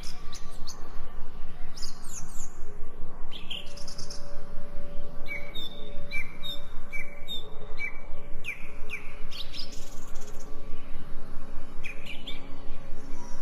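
Several wild birds chirping and calling, with quick downward-sliding chirps. Through the middle, one bird repeats a short two-pitched note about every two-thirds of a second.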